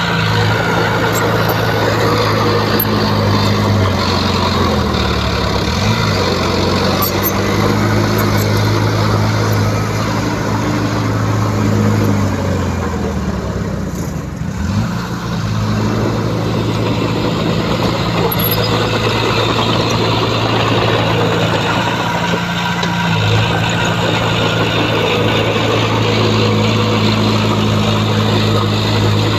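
Heavy diesel engine of a bulldozer running hard while pushing fill, its pitch sagging and then recovering about five seconds in and again around fourteen seconds in as the load comes on and eases.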